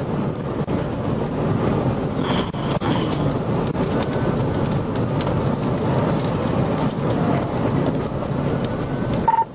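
Steady roar of road, wind and engine noise inside a police car travelling at about 100 mph in a pursuit. A short beep sounds near the end.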